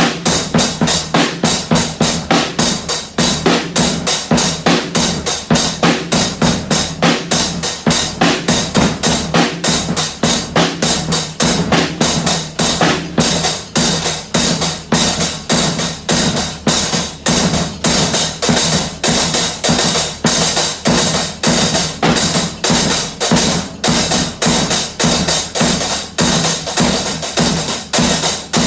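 Drums beating a steady, fast pattern of sharp hits, about three a second, with no pause.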